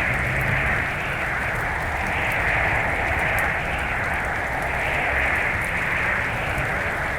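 Blizzard wind rushing across the microphone: a steady rushing noise that swells and eases every second or two, over a low, uneven rumble.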